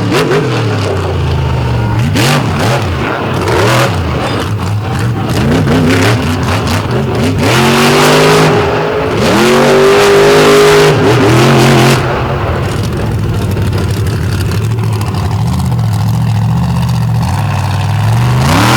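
Monster truck engine revving hard under repeated bursts of throttle, its pitch climbing and falling every couple of seconds. About two-thirds of the way through it drops a little in loudness and settles into a lower, steadier run.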